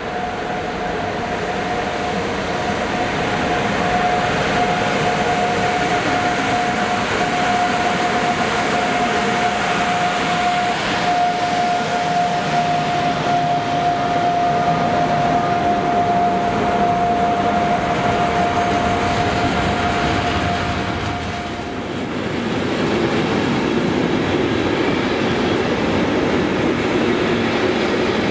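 A double-headed electric freight train with container wagons passes close by at speed. It grows louder over the first few seconds as the locomotives approach, with a steady whining tone riding over the rumble of wheels on rail. The whine stops a little after two-thirds of the way through, and the rolling rumble of the container wagons continues.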